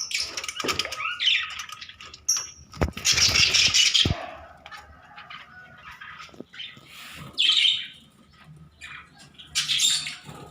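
A colony of budgerigars chirping, with several short bursts of wing flapping.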